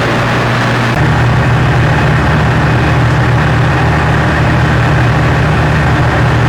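Large diesel engine running steadily with a deep hum; about a second in its sound steps up and then holds.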